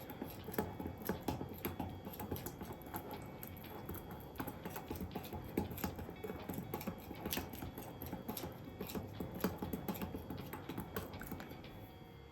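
Hand whisk stirring a thick, gooey flour batter in a mixing bowl: irregular light clicks and taps of the wires against the bowl as it is drawn back and forth.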